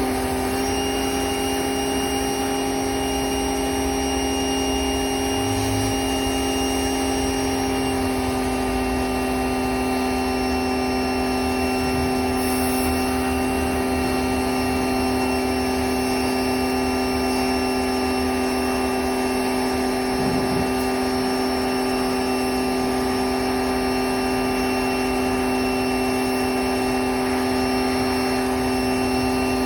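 A motor-driven machine running steadily at a constant speed, giving a steady pitched hum that does not change.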